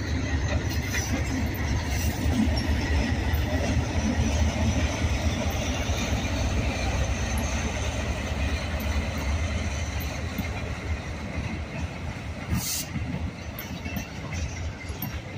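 Freight train passing close by: diesel locomotives running past, then freight cars rolling by on the rails, growing a little quieter near the end.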